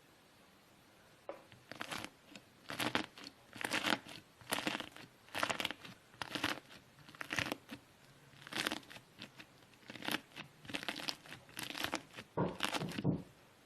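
Crunchy slime being cut with a knife, crackling and crunching with each cut, about once a second.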